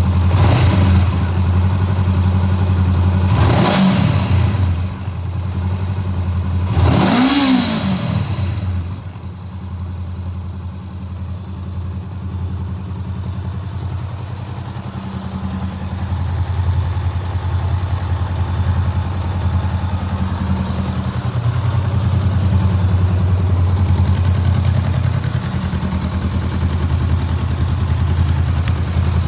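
Honda CBR400R motorcycle engine blipped three times, each rev rising and falling quickly, then settling to a steady idle.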